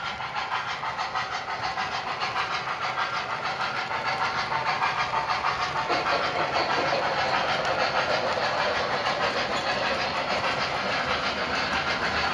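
O scale MTH Premier Long Island Rail Road H10 steam locomotive running, its ProtoSounds 2 sound system giving a fast, even steam chuff with hiss over the rumble of wheels on track, growing a little louder.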